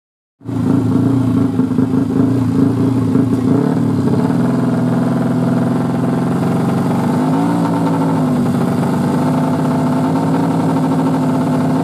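Yamaha MX King's single-cylinder four-stroke engine, bored up to 200cc, running steadily after coming in abruptly about half a second in. There are small wavers in engine speed in the first few seconds and a brief dip and recovery in pitch about seven seconds in.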